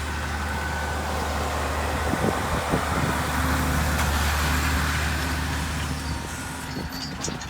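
Massey Ferguson 7619 tractor's diesel engine running steadily under load while it pulls a seed drill. It grows louder toward the middle and eases off after about six seconds.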